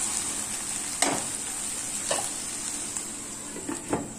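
Chicken pieces frying with onions in a wok, sizzling steadily, while a silicone spatula stirs and knocks against the pan a few times. Near the end a glass lid is set on the pan with a louder knock.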